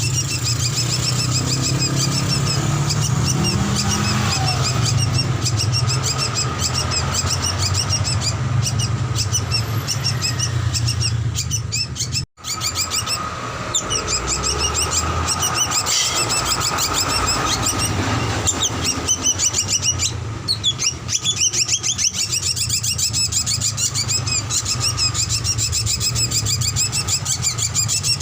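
Young drongo calling in a rapid, continuous stream of high chirping notes, over a steady low hum. The sound drops out for a moment about twelve seconds in.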